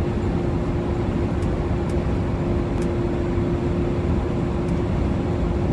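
Steady low mechanical rumble with one constant mid-pitched hum tone running through it, and a few faint ticks.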